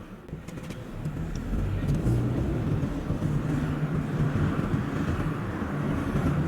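A car on the move, with steady engine and road rumble and a low hum. It is quieter at first and builds about a second in, and the whole sound is sped up to double speed.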